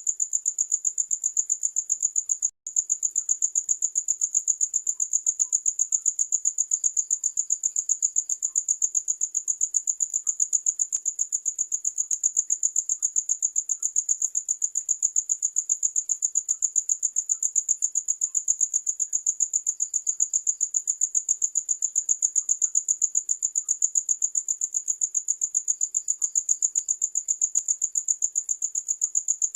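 Crickets chirping in a steady, high-pitched trill of rapid, even pulses, which breaks off for an instant about two and a half seconds in.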